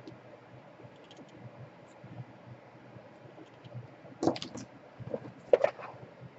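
Light clicks, then two short bursts of clicking and clattering about four and five and a half seconds in, as small tools and parts are handled on a repair bench.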